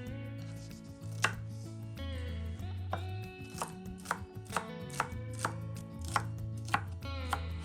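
A kitchen knife chopping on a cutting board: about ten sharp, unevenly spaced cuts, starting about a second in, over soft background music.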